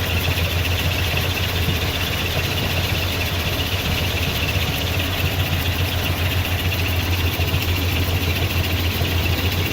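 Engine of a 1984 GMC 1500 C pickup idling steadily and quietly.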